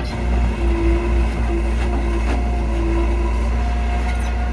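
Heavy diesel engine of earth-moving machinery running steadily, with a humming tone that comes and goes over the first few seconds and a few clicks.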